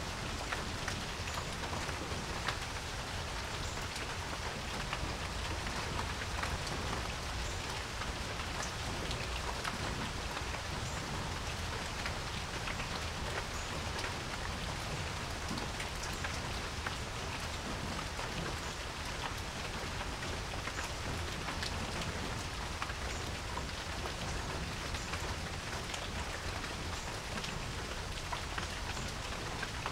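Steady rain falling on a porch, a constant hiss of rainfall with many small drops pattering close by.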